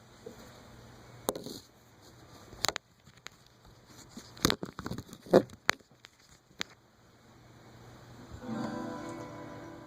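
Several sharp knocks and clicks, like a guitar being handled, then a guitar chord strummed about eight and a half seconds in and left ringing.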